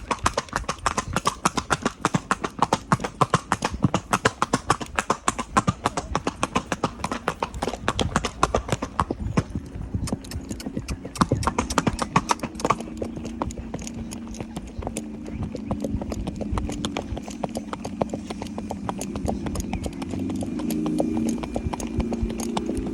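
A filly's hooves clip-clopping steadily on a street as she is ridden, the hoofbeats thinning out after about nine seconds. A steady low hum builds in the second half and grows louder near the end.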